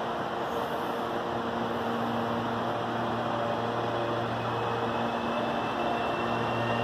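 Electric commuter train approaching along the tracks: a steady rumble that grows slowly louder, with a faint high whine rising in pitch over the second half.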